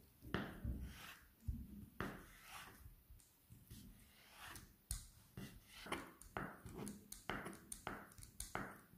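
Quiet handling sounds: a string of short taps and rubs, irregular, about two a second.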